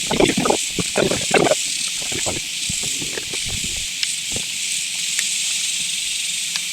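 A steady, high-pitched insect drone, typical of cicadas in summer, with a few soft knocks in the first second and a half.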